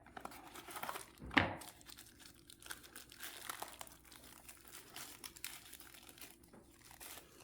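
Packaging of a new inner wheel bearing being crinkled and torn open as the bearing is unwrapped, with one sharp knock about a second and a half in.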